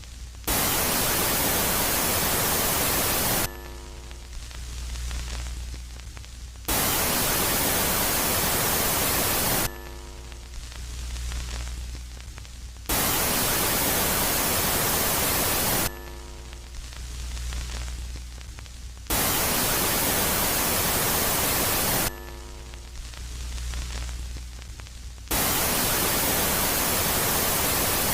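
Electronic space-ambience static alternating in a steady cycle: about 3 s of loud, full hiss, then about 3 s of a quieter phase with a low hum and a ladder of faint steady tones, repeating roughly every 6 s, with five loud phases in all.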